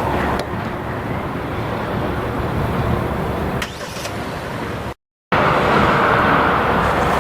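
Steady rumble and rolling noise of a passing freight train. The sound cuts out completely for a moment about five seconds in and comes back louder.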